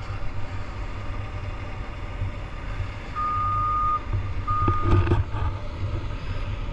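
Truck engine running with a steady low rumble, while a reversing alarm gives two beeps at one pitch, the first about three seconds in. A short metallic clatter comes around five seconds.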